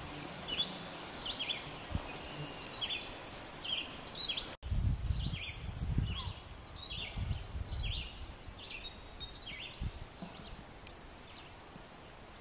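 Birds chirping: short high calls repeated about every half second. A brief dropout comes about four and a half seconds in, followed for a few seconds by a low rumble under the calls.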